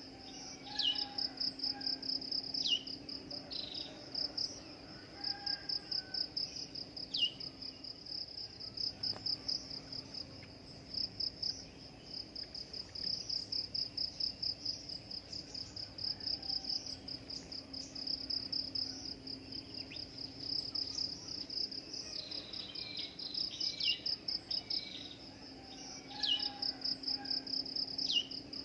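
Continuous cricket-like insect chirring, a high, fast, even pulse that never stops, with occasional short falling bird chirps over it. The chirps come in clusters near the start and again in the last several seconds.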